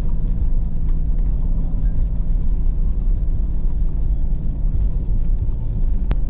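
Hummer H2 driving slowly on a dirt trail, heard from inside the cabin: a steady low engine and drivetrain drone with faint scattered ticks, and one sharp click near the end.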